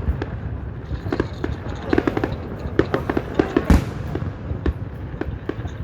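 Fireworks display: a rapid, irregular run of bangs and crackling pops, the loudest bang about two-thirds of the way through.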